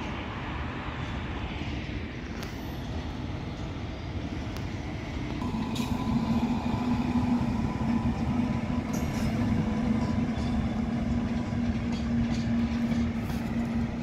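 An Indian Railways locomotive hauling passenger coaches goes by on the track. It makes a steady rumble that grows louder about five seconds in, when a steady hum joins it.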